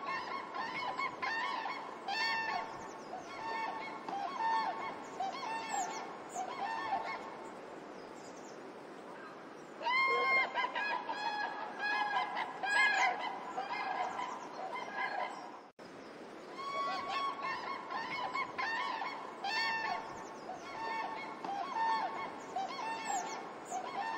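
A group of waterfowl honking, with many short repeated calls overlapping one another. The calls break off suddenly for a moment about two-thirds of the way through, then resume.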